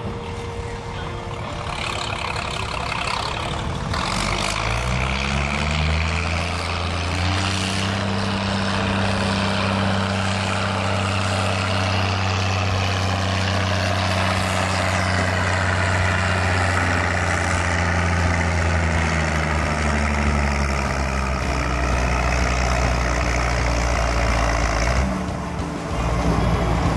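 Tractor engine pulling a sled: it revs up a few seconds in and runs hard under load, its pitch slowly sinking as it lugs down, then drops off near the end.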